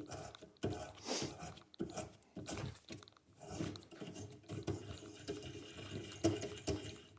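An 8.5 mm reamer cutting through the bolt hole of a steel car door hinge, opening it up to take an oversize hinge bolt. It makes a run of short, uneven scraping and crunching strokes, about two a second.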